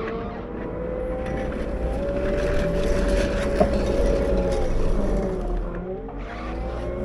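Caterpillar 908 compact wheel loader's diesel engine revving up, holding at high revs for a few seconds, then dropping back about six seconds in before revving up again.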